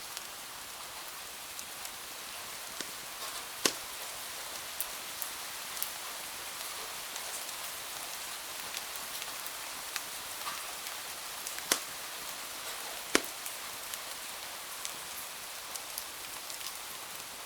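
Steady hiss of rain, with scattered sharp crackles and pops from a wood fire; three of the pops stand out loud, one early and two close together later on.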